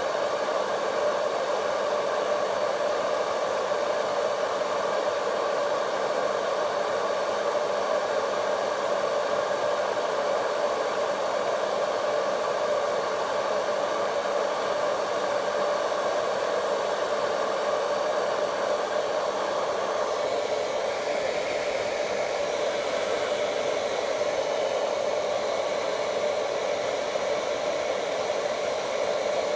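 Vidal Sassoon Hot Tools hair dryer running steadily, a continuous whoosh of blown air and motor. About twenty seconds in, its tone shifts slightly higher while the loudness stays the same.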